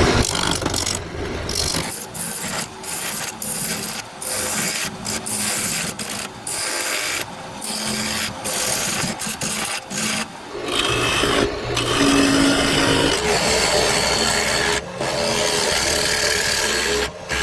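A turning tool cutting into a square Osage orange blank spinning on a wood lathe, knocking off the corners to round it: rough, scraping cutting noise in repeated stretches with short breaks as the tool comes off the wood. A steady low lathe hum joins about ten seconds in.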